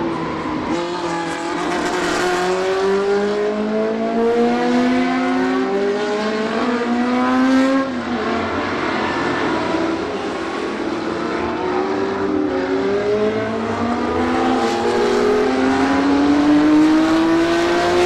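Historic sports racing car engines under hard acceleration, the pitch climbing steadily, dropping sharply just before eight seconds in at a gear change, then climbing again. More than one car's engine note overlaps.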